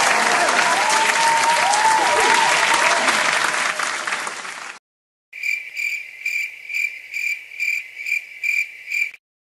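Crowd applause with cheering and whistles, cutting off abruptly about halfway through. After a short gap comes a cricket chirping in an even rhythm, a little over two chirps a second: the stock 'awkward silence' cricket sound effect.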